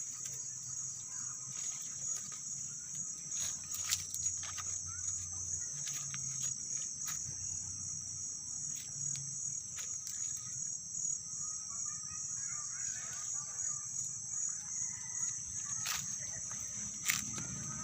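Steady, high-pitched chorus of trilling insects such as crickets, with a few sharp snaps or clicks, the loudest about four seconds in and near the end.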